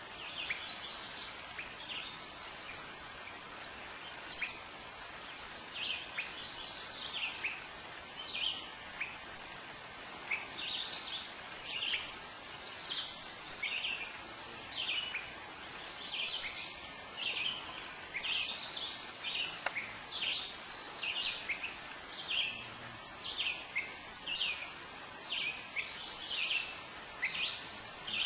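Songbirds singing: phrases of quick, high, downward-sweeping notes, a new phrase every second or two, over a faint steady hiss.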